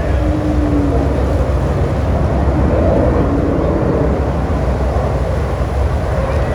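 Aircraft engine noise: a steady, loud rushing drone.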